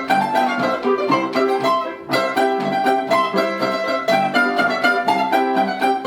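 Instrumental folk-style music played by plucked strings with bowed strings, in a steady, even beat. The sound dips briefly about two seconds in, then the playing carries on.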